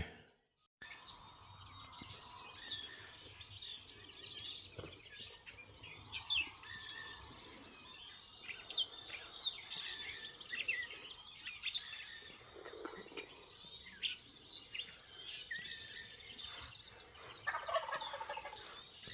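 Woodland birds singing in many short chirps and trills. Near the end a wild turkey gobbles once in a short rattling burst.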